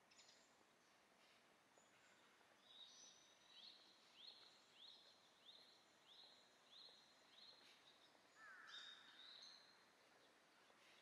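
Faint birdsong over a low, steady city hush: one bird repeats a short rising chirp about eight times, a little faster than once a second, then a few other bird calls follow near the end.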